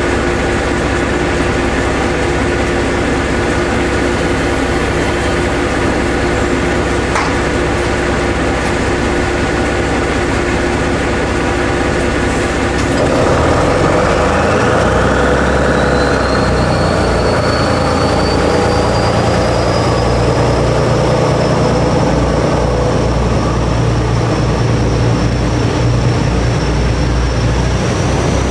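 Steady machinery hum of a train standing at a station platform. About halfway through it grows louder and a whine rises steeply, then keeps climbing slowly.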